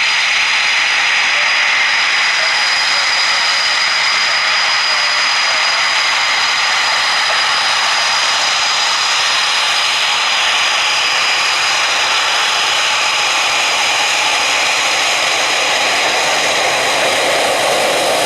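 Eurofighter Typhoon jet engines running, a steady loud rushing noise with a high whine held over it. The whine drops slightly in pitch partway through, and the lower part of the noise swells near the end.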